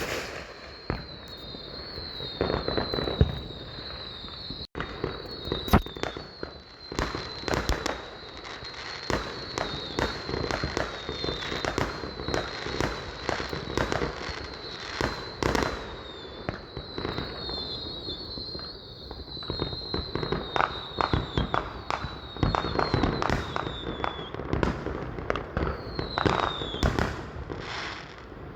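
Fireworks going off: a dense string of bangs, pops and crackle, with a high wavering whistle running under them for most of the stretch and sliding down in pitch near the end.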